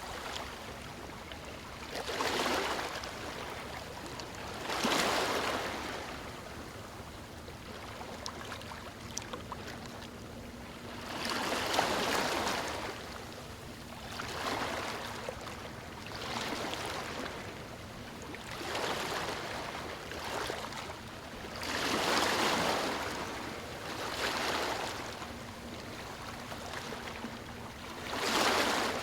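Waves breaking on a stony shore: each one washes in as a swell of hissing water every two to four seconds, a few louder than the rest, over a steady lower wash.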